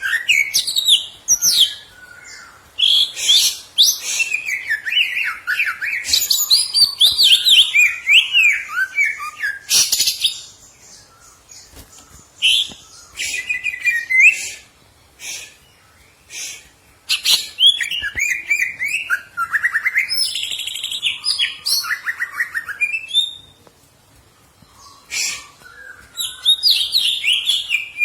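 Cucak ijo (greater green leafbird) singing: fast, varied whistled and chattering phrases with quick pitch slides, in bursts of one to several seconds broken by short pauses.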